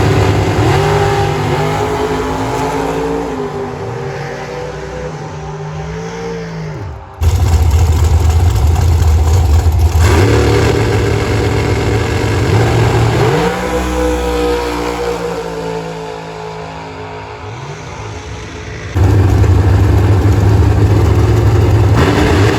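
High-performance car engines revving at a drag strip, the engine note repeatedly climbing and falling. The sound jumps abruptly to a louder, deeper engine about seven seconds in and again near nineteen seconds.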